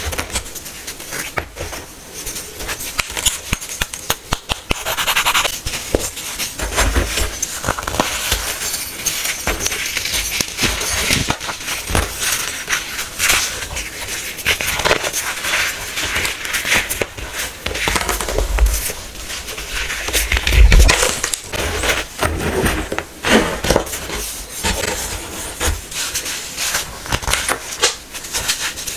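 Compressed baking soda being crushed, a dense, continuous crunching and crackling with a few heavier thuds.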